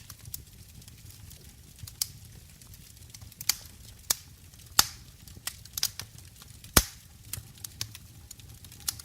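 Wood fire crackling in a fireplace: irregular sharp pops and snaps over a low steady rumble, the loudest pop about seven seconds in.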